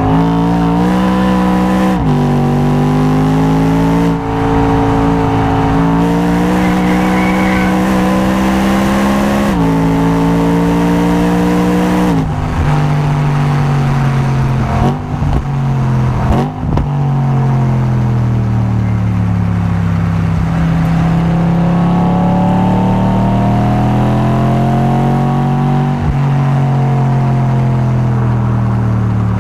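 Track car engine under hard acceleration, climbing through the revs with several upshifts in the first twelve seconds. About halfway through come two quick throttle blips as it shifts down. The revs then sag and build slowly again before another upshift near the end.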